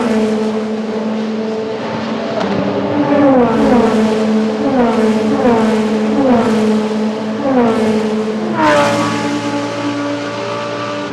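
A string of IMSA race cars passing at speed one after another, each engine note dropping in pitch as the car goes by. A louder car passes about nine seconds in, its note falling sharply and then holding steady as it pulls away.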